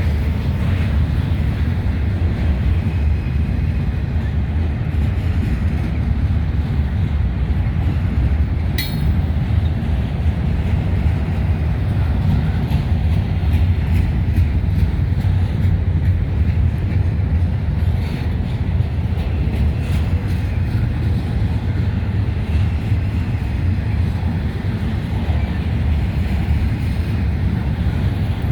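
Freight train rolling past at close range, a steady heavy rumble of the wheels and cars on the rails, with one sharp click about nine seconds in.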